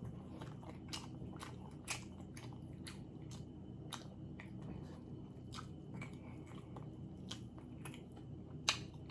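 A person chewing a mouthful of Italian beef sandwich close to the microphone: soft, wet mouth clicks come irregularly, one or two a second, with one louder click near the end.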